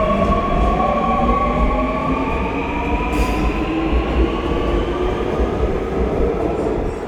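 Seoul subway train running on the track, a steady low rumble with the electric traction motors' whine rising slowly in pitch as the train picks up speed.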